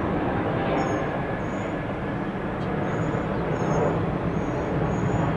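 Steady jet airliner engine noise, a continuous even rush without any rise or fall, with a few faint short high chirps over it.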